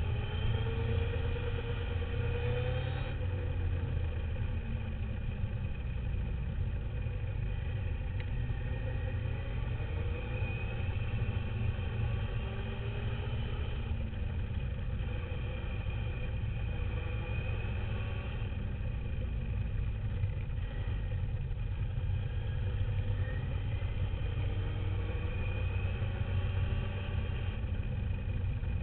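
Radio-controlled dirt bike's motor whining up and down in pitch as its speed changes, heard from a camera mounted on the bike, over a heavy, steady low rumble of wind and vibration.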